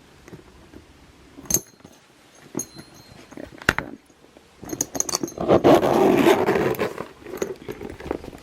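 A bag being handled: a few sharp clicks of its hardware, then about two seconds of louder rustling and shuffling partway through.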